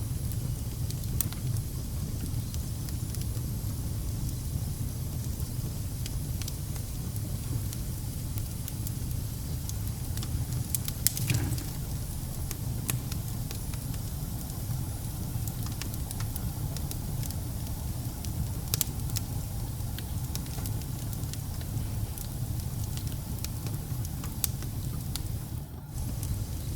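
Wood fire burning in a fireplace: a steady low rumble with scattered crackles and pops, and a louder pop about eleven seconds in.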